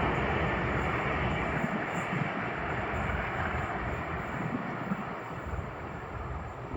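A passing train's rushing noise fading steadily as it draws away.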